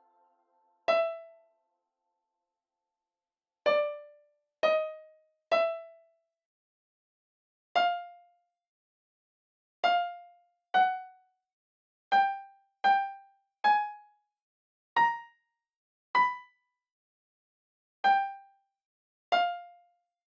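Single piano notes played one at a time, about fourteen of them at uneven gaps, each dying away quickly into silence, their pitch stepping a little up and down between notes.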